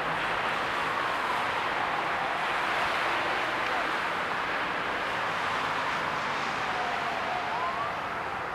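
Steady hiss and hum of a passenger train standing at the platform, with faint squeals gliding in pitch near the end.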